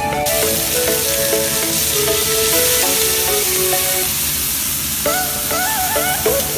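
Frog pieces sizzling as they fry in hot oil in a steel wok, a loud steady hiss that sets in suddenly just after the start.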